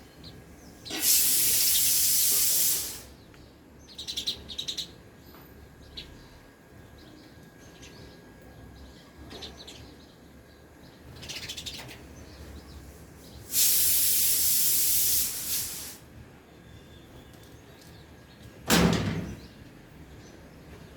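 Sparrows chirping now and then. Two loud bursts of hiss, each about two seconds long, come about a second in and again past the middle, and a short loud sound with a low thump comes near the end.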